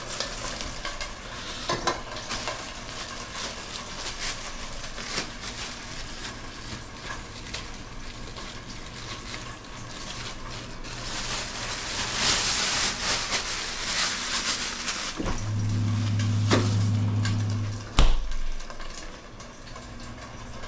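Pork and chive dumplings sizzling in oil in a lidded frying pan, with a plastic bag crinkling and rustling in hands. Near the end a low steady hum runs for about three seconds and stops with a sharp knock.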